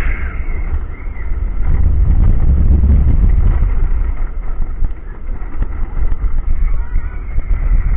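Inverted roller coaster train running along its track, a loud low rumble mixed with wind buffeting the microphone. A faint higher whine shows near the end.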